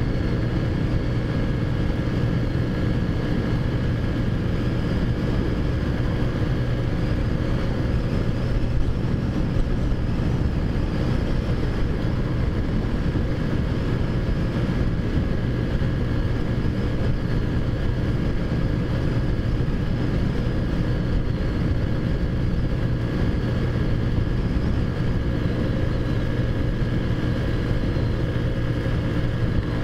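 Taotao Zummer scooter's big-bore-kitted 50cc four-stroke engine running at a steady cruising speed, its pitch holding level with no revving up or down.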